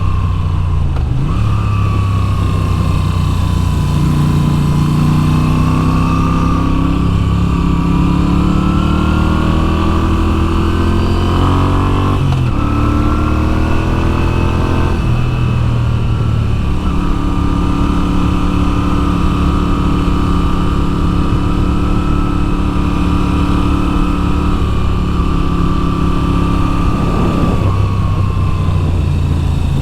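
2022 Moto Guzzi V7's air-cooled V-twin engine running under way, its pitch climbing and falling as the rider accelerates and backs off. It drops sharply about twelve seconds in and again near the end, holds steady for much of the second half, and has a steady wind rush behind it.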